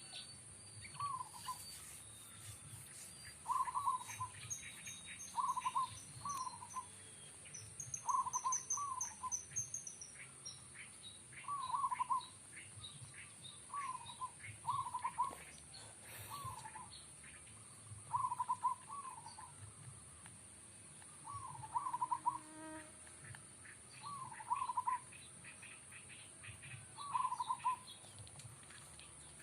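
Zebra doves (perkutut) cooing, each a short, quick run of notes repeated every couple of seconds, sometimes two phrases close together as the birds answer one another.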